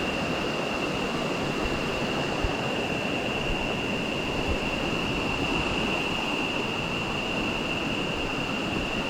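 Steady rush of a mountain river's water running over rocks, with a steady high-pitched whine held throughout.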